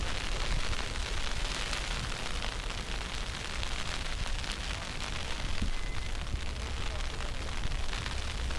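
Wind buffeting the microphone in a snowstorm, a constant low rumble under a steady hiss of street noise.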